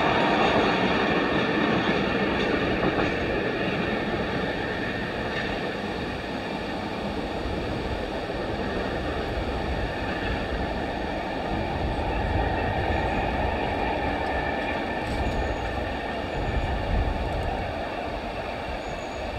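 Train of yellow flat wagons rolling away along the track, its rumble fading over the first few seconds and then lingering as a low steady rumble.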